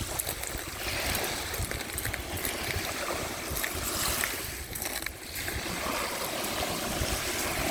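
Small waves of the Sea of Azov washing and lapping at the shore, their hiss swelling and fading every few seconds, over a low rumble of wind on the microphone.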